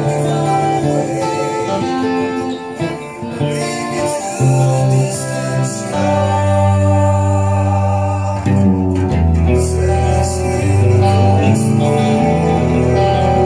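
Fingerpicked guitar playing a slow picked chord pattern, with low notes held under the chords and changing every second or two.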